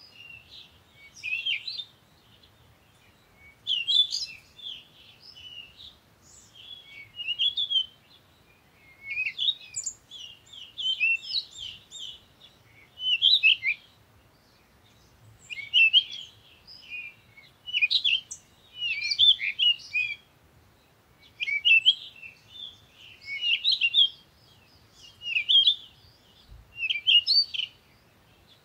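Birds chirping and twittering in short bursts of quick, high chirps, a new phrase every couple of seconds.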